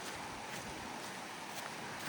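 Steady outdoor hiss of wind and wind-driven snow, with a few faint ticks.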